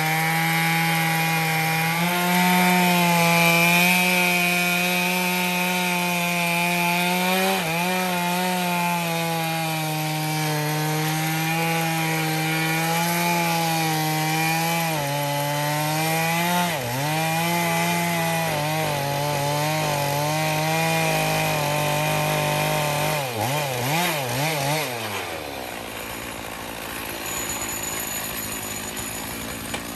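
Stihl MS461 two-stroke chainsaw in an Alaskan chainsaw mill running at high revs under load as it rips a cedar log lengthwise, its pitch sagging briefly a couple of times. About 25 seconds in the engine note wavers and drops away, and the saw settles to a quieter, lower running sound.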